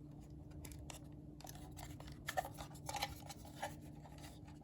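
Short plastic clicks and scrapes from handling a cordless-phone charging cradle and its power plug, busiest in the middle, over a faint steady hum.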